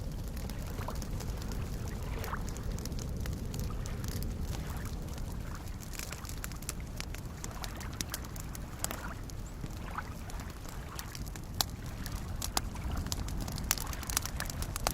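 Campfire crackling with scattered sharp pops, a few louder ones in the last few seconds, over soft lake waves lapping with a steady low wash.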